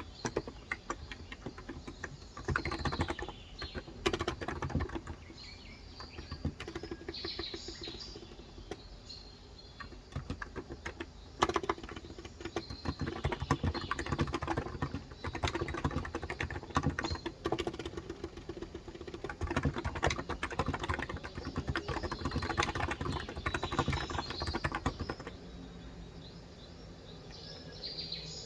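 Typing on a Cox Endeavor 35 g electrostatic-capacitive (non-contact) tenkeyless keyboard, in bursts of rapid keystrokes with short pauses between. Birds chirp in the background several times.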